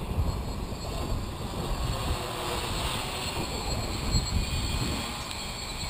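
Quadcopter motors and propellers humming at a distance, under a steady low rumble of wind buffeting the microphone.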